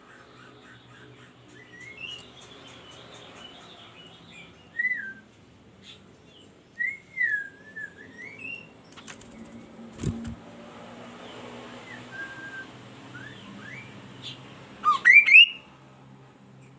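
Kaso-kaso songbird singing: a string of short whistled notes sliding up and down, with a loud burst of quick rising notes near the end. A sharp click sounds about ten seconds in.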